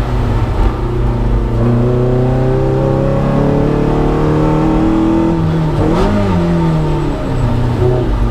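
Toyota MR2 race car engine pulling hard, its revs climbing steadily for a few seconds. A little before six seconds the revs drop sharply, with a click, as it lifts off or changes gear, then it settles to a steadier pull.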